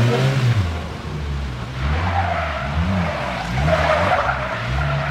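Car engine revving up and down over and over while the tyres squeal, the squeal starting about two seconds in and loudest near four seconds.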